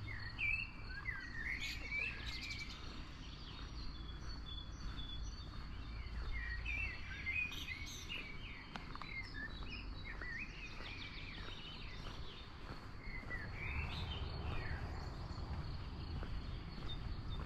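Birds chirping and calling in several short bursts over a steady low outdoor rumble, with a faint steady high tone running through.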